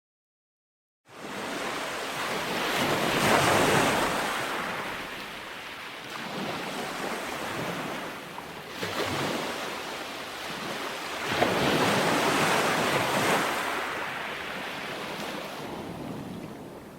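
Ocean surf: after about a second of dead silence, waves wash in and break on the shore, swelling and falling back three times.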